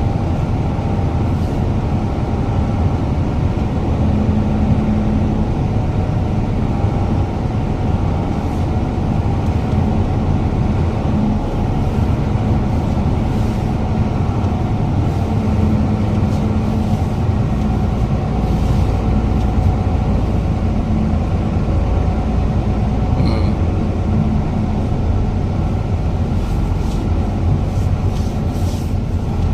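Heavy truck engine running steadily, a continuous deep rumble with a steady hum that barely changes.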